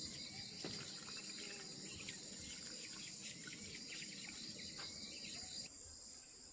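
Insects, likely crickets, chirring steadily in a high, even band, which drops away about five and a half seconds in. Underneath are scattered small clicks and knocks.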